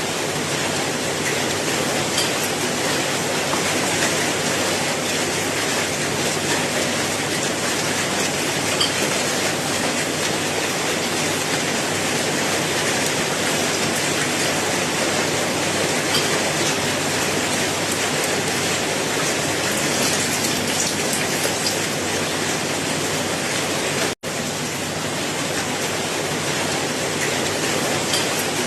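Steady heavy rain falling, a dense even hiss of drops. The sound cuts out for an instant about 24 seconds in and resumes unchanged.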